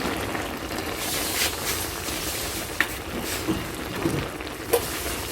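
Bamboo-shoot and pork mixture simmering and sizzling in a pot, a steady bubbling hiss, with a few light clicks from a utensil against the pot.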